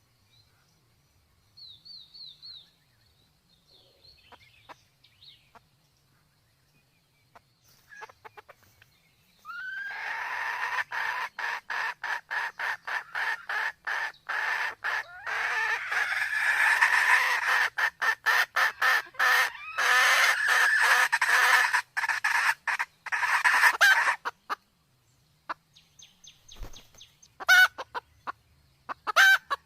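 Red junglefowl calling: faint high chirps about two seconds in, then a loud run of rapid, repeated clucks and cackles lasting about fifteen seconds, and a few scattered calls near the end.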